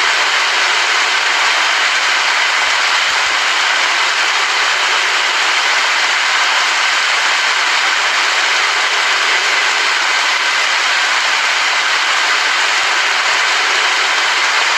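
Steady rain, a dense even hiss of falling drops with no let-up or thunder.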